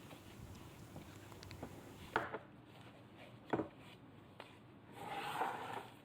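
Unboxed items being handled and set down on a table: two sharp knocks about two and three and a half seconds in, a few lighter clicks, and a short rubbing rustle near the end.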